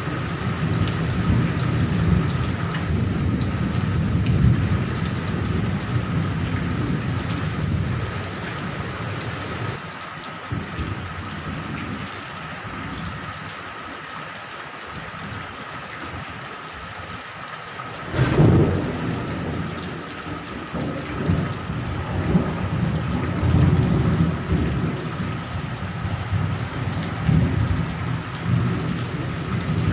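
Steady rain falling with rolling thunder. The rumbling eases off about ten seconds in, then a sharp thunderclap breaks about eighteen seconds in and the rumbling returns.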